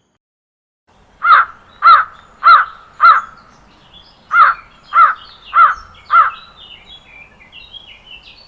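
A crow cawing: eight harsh caws in two runs of four, a little over half a second apart, with a short pause between the runs. Faint high chirping sounds behind it near the end.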